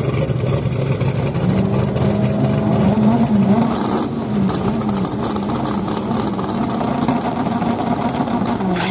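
Drag car engine held at raised revs on the starting line, its pitch wavering up and down as it waits to launch. A brief burst of noise sounds about four seconds in.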